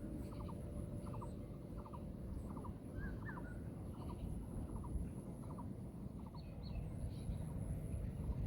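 A bird calling a steady series of short, clipped notes, about two to three a second, fading out about two-thirds of the way through, over a low steady rumble.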